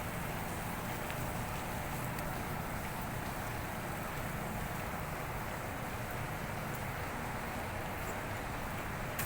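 Steady shipyard background noise: a low mechanical hum under an even, broad rushing noise, with wind on the microphone.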